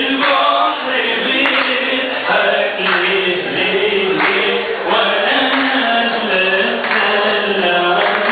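Voices singing a chant-like melody together, steady and sustained throughout.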